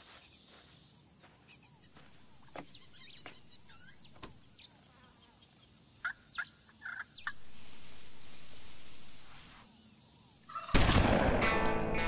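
Quiet outdoor sound with a few short bird chirps and clicks, and a steady rush of noise for about two seconds in the middle. Loud guitar-driven rock music starts suddenly near the end.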